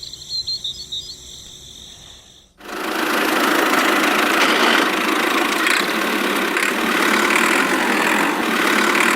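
Faint bird chirps, then about two and a half seconds in a small motor-driven machine starts abruptly and runs with a steady, noisy sound without a clear pitch.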